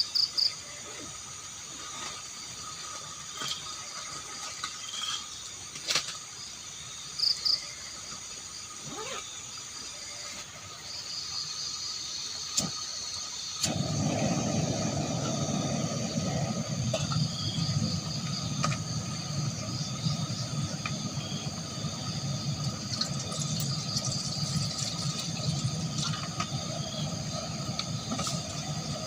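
A steady chorus of forest insects, with a few short sharp chirps in the first few seconds. About halfway through, a steady water-like rushing noise starts and carries on.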